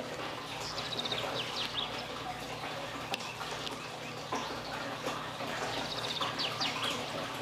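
Bird chirping: a quick run of high chirps comes twice, about five seconds apart, over a steady background hiss, with a couple of faint clicks between them.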